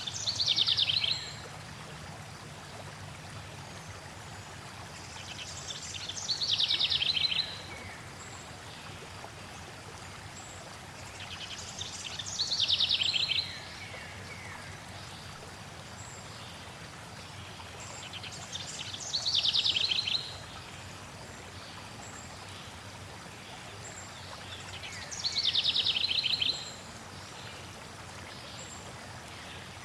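A songbird sings the same short, fast, descending trill five times, about every six and a half seconds, over the steady rush of flowing water.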